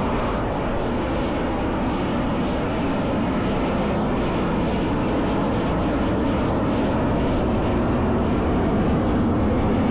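A display aircraft's engines running in flight, a steady, continuous noise.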